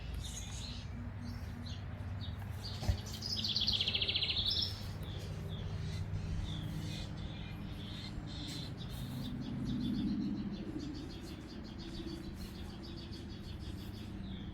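Backyard birds chirping and singing, with one louder trilling song about three seconds in that lasts a second and a half. A steady low background rumble sits under the birdsong.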